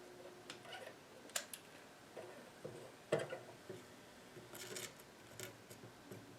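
Scattered small clicks, taps and knocks of tools and small parts being handled on a workbench, the loudest a knock about three seconds in.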